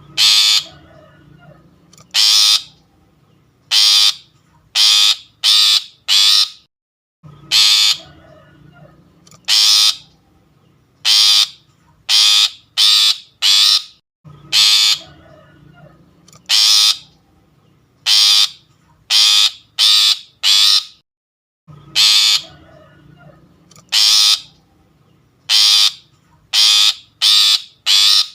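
Long-tailed shrike (pentet) giving harsh, rasping calls, played as a looped lure recording: runs of about six loud calls, the run repeating roughly every seven seconds.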